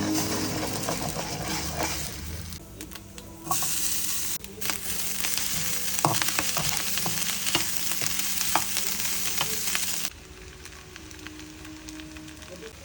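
Food sizzling in a frying pan, with scattered sharp clicks from stirring. The sizzle is loudest through the middle and cuts off suddenly near the end.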